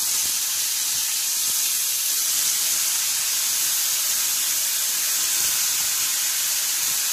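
Shredded cabbage sizzling in a hot oil and mustard-seed tempering: a steady, high frying hiss as the freshly added cabbage cooks.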